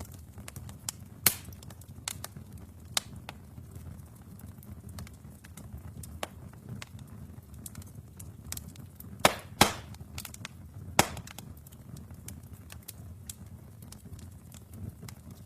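Wood fire burning in a fireplace: irregular sharp pops and snaps of the burning logs over a low, steady rumble of the flames. A few louder pops come close together about nine to eleven seconds in.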